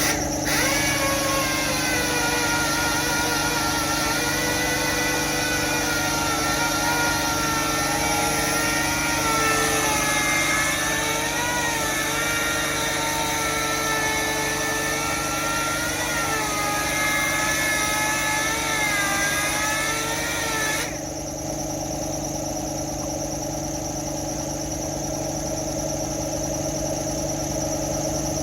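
Power sander running on car body panels, a whine over a hiss that dips in pitch now and then and cuts off suddenly about 21 seconds in. A steady low hum runs underneath throughout.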